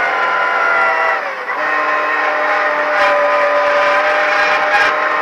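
Ford Fiesta ST rally car's engine under hard driving, heard from inside the cabin: high revs drop about a second in, as on a lift or gear change, then the engine pulls steadily again.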